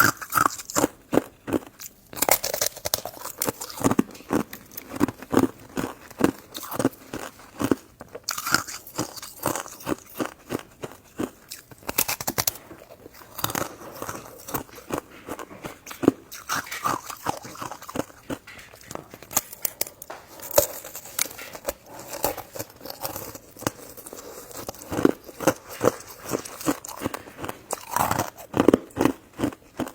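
Close-miked chewing and biting of chewy jelly desserts: a steady run of wet clicks and smacks, several a second, with louder bites here and there.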